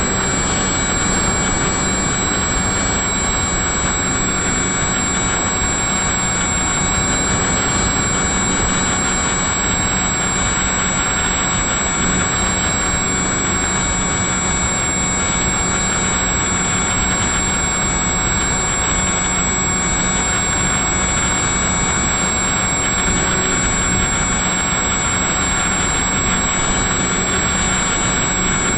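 Steady rush of wind and propeller noise picked up by a camera mounted on an FPV model aircraft in flight, with a constant high whine running through it.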